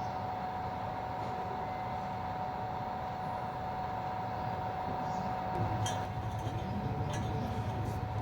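A steady machine hum with a constant tone, and a few light clinks about six seconds in.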